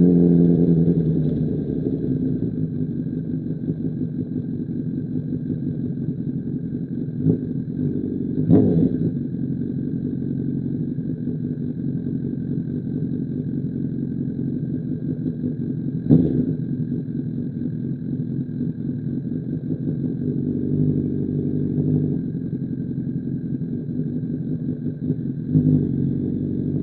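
2005 Honda CBR1000RR's inline-four engine through an SC Project CR-T exhaust, under way. It is louder for the first couple of seconds, then runs at a steady pace with a few short, sharp rev spikes.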